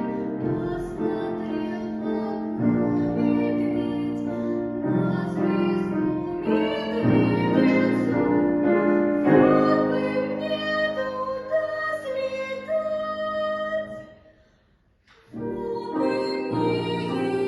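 A girl singing a lyrical melody with piano accompaniment. The music breaks off for about a second near the end, then voice and piano start again.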